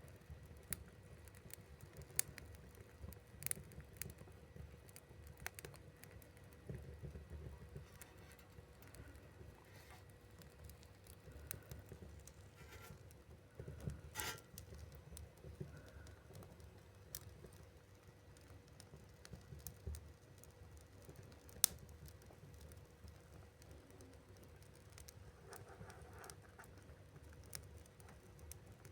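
Wood fire crackling in a wood-burning stove: scattered, irregular pops and clicks, a few sharper ones standing out, over a faint low rumble.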